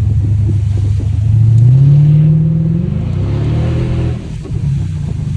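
Mercedes-Benz CL500's 5.0-litre V8 running with no exhaust fitted, revving up with a rising pitch to about three seconds in, then the revs dropping back.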